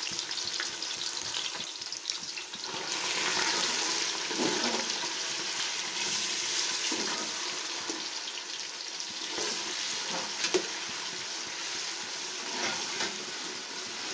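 Tomato paste and sliced onions sizzling in hot vegetable oil in a metal pot, with a steady frying hiss. A metal spoon stirring the mixture scrapes and knocks against the pot now and then.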